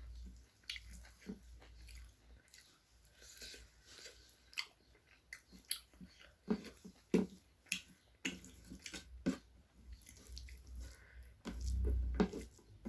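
Close-up eating sounds of chicken curry and rice: irregular wet chewing, lip smacks and mouth clicks. There is a low muffled rumble about twelve seconds in.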